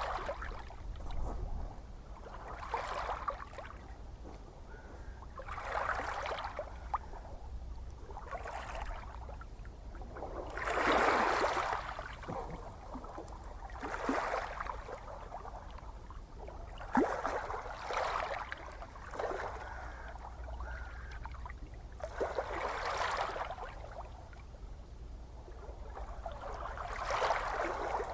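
Gentle ocean waves lapping and washing in, a soft splash swelling and fading every few seconds over a steady low rumble, one wash about a third of the way through louder than the rest.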